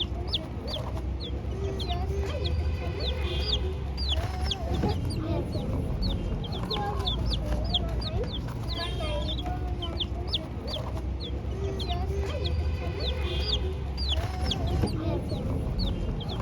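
A group of young chicks peeping continuously in short, high cheeps, with lower calls that waver in pitch beneath them, over a steady low rumble.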